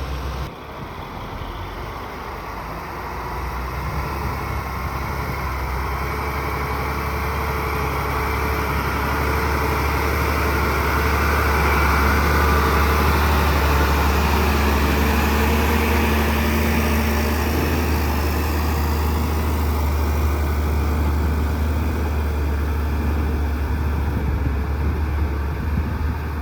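Heavy diesel engine of earthmoving machinery running steadily, growing louder toward the middle and then easing off a little.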